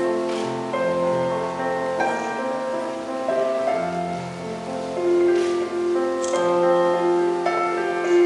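Slow classical processional music on a keyboard instrument, held chords over a moving bass line, played for the bride's entrance.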